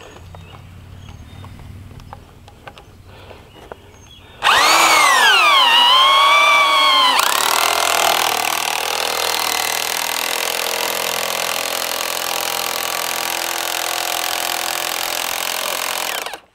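Electric power saw cutting wood: its motor whine dips under load as the blade bites, then recovers, and it runs through the cut for about nine seconds before stopping suddenly near the end.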